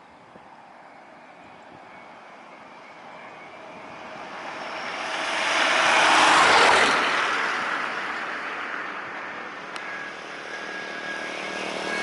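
Jet airliner taking off and passing close by: the engine roar swells to a peak about six and a half seconds in, then fades, leaving a thin whine.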